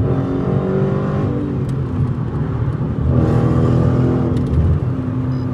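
Straight-piped Dodge Challenger Scat Pack's 6.4-litre HEMI V8 accelerating, heard from inside the cabin with the windows up. The engine note climbs in pitch over the first two seconds, climbs again from about three seconds in, then holds steady near the end.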